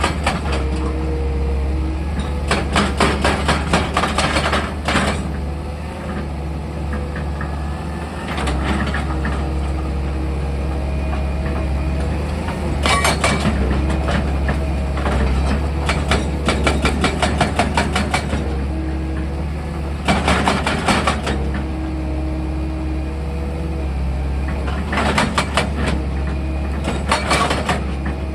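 Excavator's diesel engine running steadily, broken by about six spells of rapid, repeated hammering strikes lasting one to three seconds each, typical of drilling into rock.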